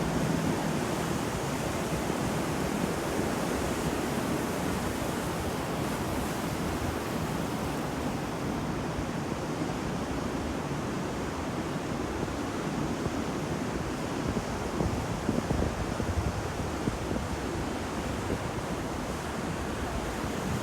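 Ocean surf washing steadily onto a shore, with a gentle rise in the wash about two-thirds of the way through.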